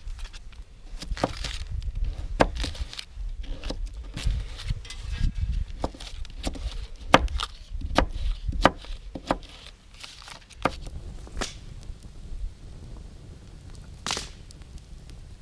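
Irregular sharp knocks and snaps, some in quick succession, over a low steady rumble.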